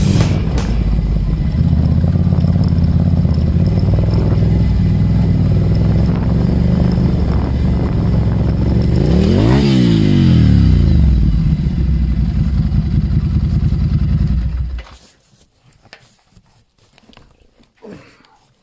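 An engine running steadily at a low, even pitch, with a brief rise and fall in pitch about ten seconds in. It cuts off suddenly about fifteen seconds in, leaving faint scattered clicks.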